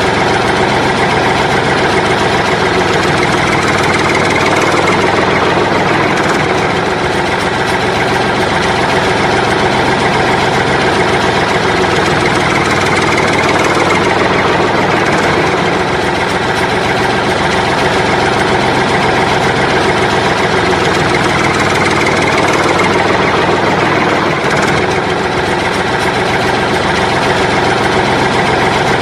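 An engine running steadily at idle, holding an even speed with no revving.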